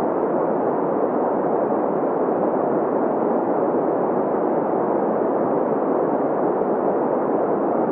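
Green noise: a steady, unchanging hiss with its weight in the middle range, falling away in the highs and lows.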